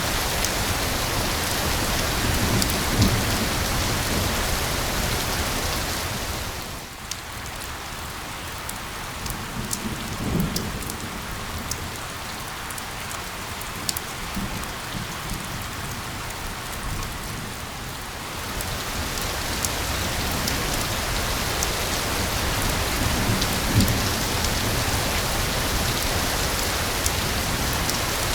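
Steady rain falling on a hard surface, with fine drop ticks over an even hiss. The downpour eases noticeably about seven seconds in and builds back up about eighteen seconds in, and a few brief low rumbles come through.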